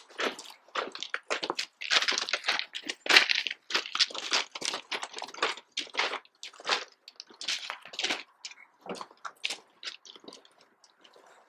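Footsteps crunching on railway track ballast, an irregular run of sharp crunches that thins out in the second half.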